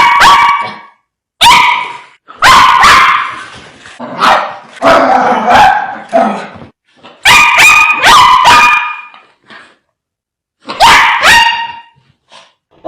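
Fierce dogs barking hard, in about six loud clusters of several sharp barks each, with short pauses between the clusters.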